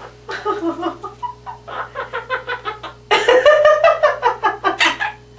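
Quaker parrot (monk parakeet) giving a run of quick, clucking calls in imitation of a chicken, louder from about three seconds in.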